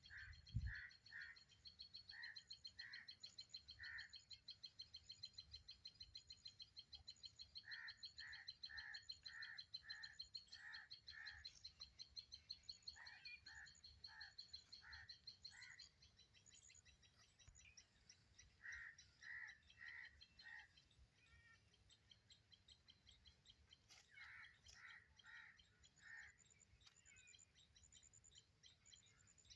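Rufous treepie calling: faint bouts of four to seven short, repeated call notes, about two a second, with pauses between bouts. A fast, high trill runs underneath through the first half and then fades.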